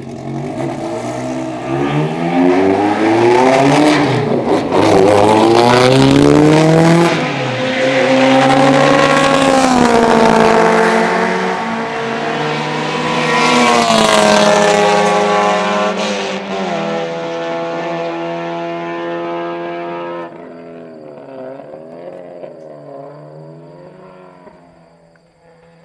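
Race car's engine revving hard as it accelerates around the circuit, its pitch climbing and then dropping at each of several gear changes. After about twenty seconds it drops back and fades away, still rising and falling.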